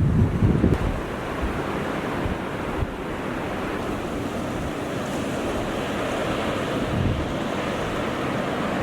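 Steady rush of wind, with gusts buffeting the microphone during the first second.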